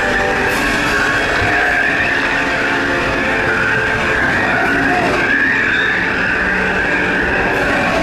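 Disneyland Railroad train rolling along with a steady, wavering high-pitched squeal from its wheels, mixed with recorded music from the diorama's soundtrack.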